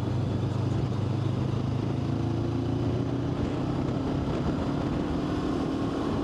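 Vehicle engine droning steadily under road and wind noise while driving. A higher, steady engine note joins the low hum about two seconds in.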